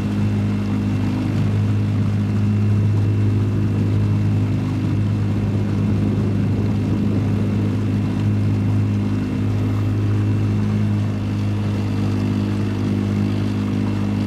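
Boat motor running steadily at an even speed while the boat cruises along.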